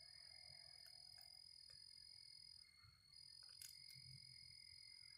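Near silence with a faint, steady, high-pitched insect drone that breaks off briefly near the middle, and a few faint clicks.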